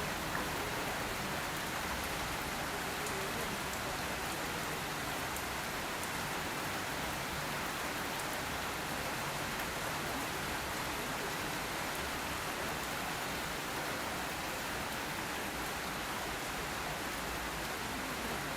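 Steady rain falling and pattering on surfaces, with a few faint drop ticks.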